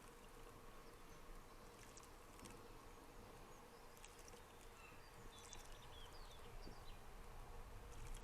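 Near silence outdoors: a faint steady hum, with a few faint, short, high chirps from small birds in the middle stretch.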